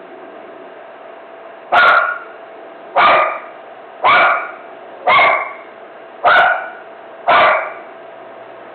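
A dog barking in a steady series, six barks about a second apart, starting about two seconds in.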